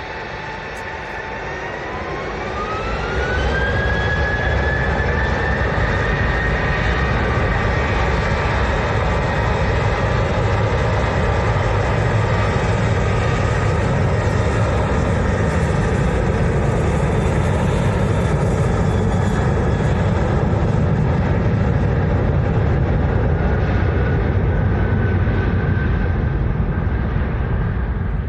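Jet airliner engines spooling up: a whine rises in pitch a second or two in as the sound grows loud, then the engines run steady and loud with a deep rumble, easing slightly near the end.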